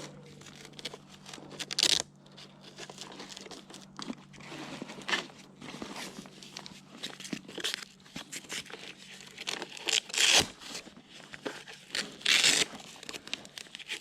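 Irregular rustling and crinkling of handled material, such as gear being stuffed and packed, with sharper scrunching bursts about 2, 10 and 12 seconds in. A faint steady hum underneath stops about two-thirds of the way through.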